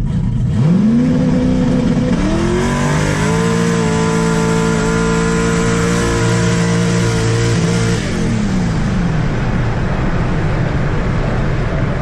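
A car engine revving up in two steps, holding steady high revs for about five seconds, then winding back down, with a loud noise of rushing air and exhaust underneath.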